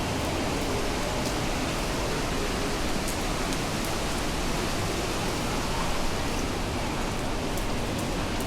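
Heavy rain falling steadily, with a few faint sharp ticks scattered through it.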